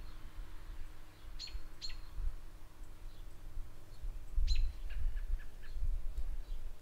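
A small bird chirping outdoors: a pair of sharp chirps falling steeply in pitch about a second and a half in, another near the middle, then a quick run of short, lower notes. A low, uneven rumble runs underneath.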